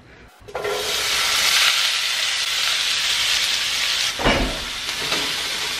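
Diced onions and red peppers hitting hot olive oil in a stainless steel skillet: a loud sizzle starts suddenly about half a second in and goes on steadily. A brief low bump comes just after four seconds, and the sizzle carries on a little quieter.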